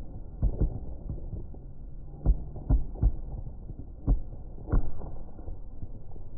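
Fireworks shells bursting at a distance as a run of dull booms, about seven in all, some in quick pairs, over a steady low background rumble.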